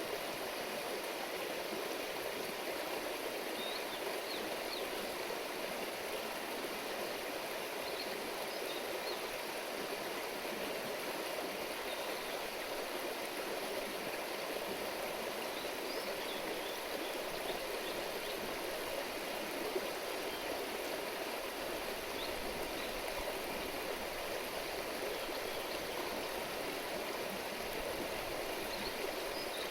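Steady babbling of a river or stream flowing over stones.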